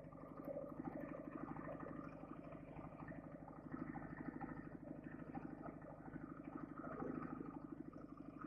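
Soviet flat-twin sidecar motorcycle engine, a Ural or Dnepr, running steadily at low revs with an even pulsing beat.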